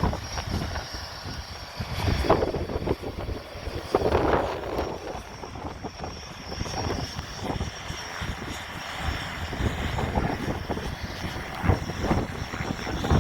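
Propeller aircraft engine running, a continuous rumble that swells and fades unevenly.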